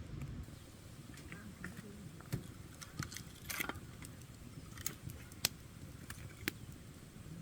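Campfire of burning wood crackling, with scattered sharp pops and snaps, the loudest about two, three and a half, five and a half and six and a half seconds in, over a low steady rumble.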